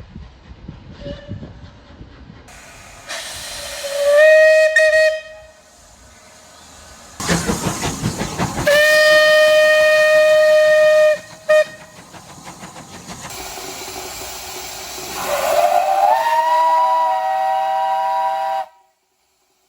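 Steam locomotive whistles, three separate blasts. The first two are single-toned, with a rush of steam hiss just before the second. The third is a chime of several tones that swoops up as it opens and then cuts off suddenly near the end.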